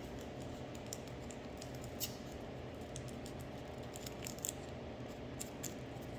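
Scattered faint clicks and smacks of someone eating, over a steady low hum.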